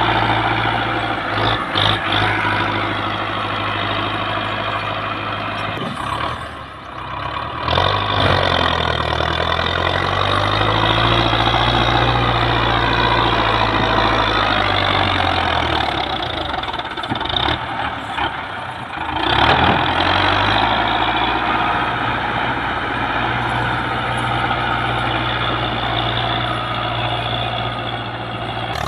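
Tractor diesel engine running under load, its pitch rising and falling as it is revved, with brief dips about six seconds in and again near nineteen seconds.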